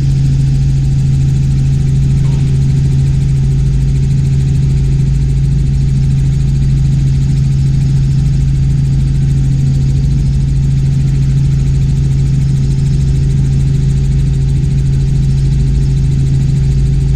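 Steady in-flight drone of a Robinson R44 Clipper II helicopter, heard inside the cabin: its six-cylinder Lycoming piston engine and rotors running at a constant pitch with a low rumble.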